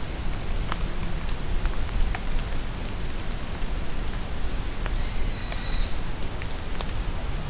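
Steady rain falling in a forest, with single drops tapping close by. A few short, high bird chirps sound through it, and a longer bird call comes about five seconds in.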